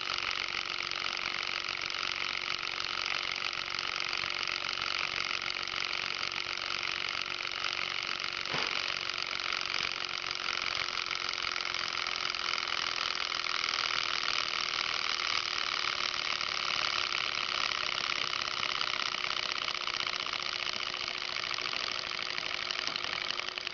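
PM Research Stirling engine kit running steadily, its small mechanism giving a continuous even whir with a low steady hum underneath. A single click sounds about eight and a half seconds in.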